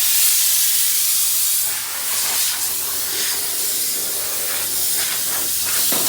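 Loud, steady hissing noise.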